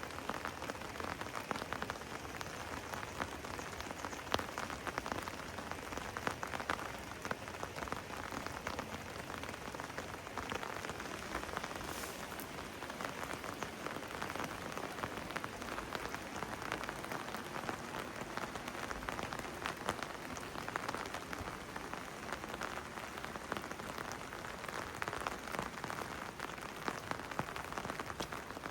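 Steady rain: a dense patter of individual drops over an even hiss.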